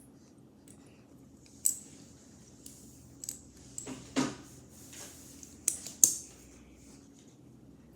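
Small plastic Lego pieces clicking and clattering as they are handled and pressed together: a string of sharp clicks, the loudest about six seconds in, with a short scrape about four seconds in.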